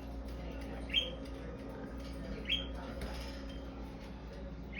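A bird giving two short, rising chirps, about a second and a half apart, over a faint steady hum.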